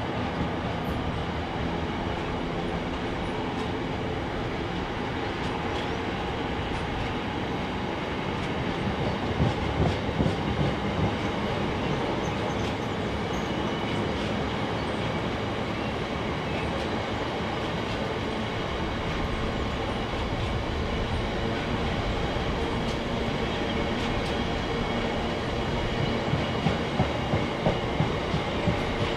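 Long freight train of covered hopper wagons rolling past at steady speed, a steady rumble of wheels on rail. Bursts of rhythmic clicking come as the wheels run over rail joints, about a third of the way in and again near the end, with a faint steady squeal from the wheels on the curve.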